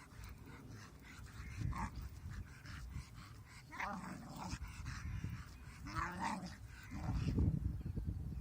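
A dog making odd grumbling, whining vocal noises in several short bouts that rise and fall in pitch, with a louder, low growly stretch about seven seconds in.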